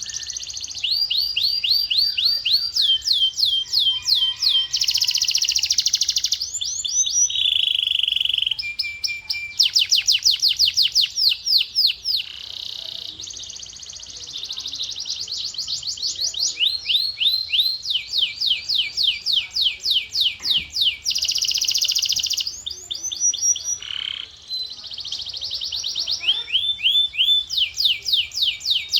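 Male canary singing continuously: a long song of rapid trills, each a fast train of repeated sweeping notes lasting about a second, alternating with buzzy rolling phrases.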